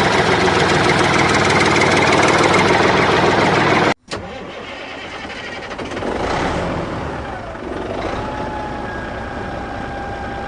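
Tractor engine running loudly, cut off abruptly about four seconds in, then a quieter engine running steadily.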